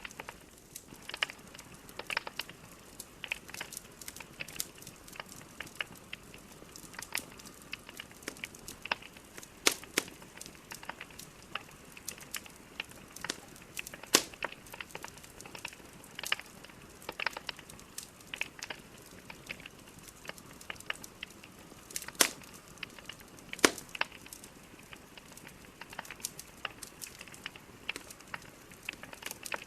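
Burning wood logs crackling and popping in a fireplace: irregular sharp snaps over a faint hiss, with a few louder pops scattered through.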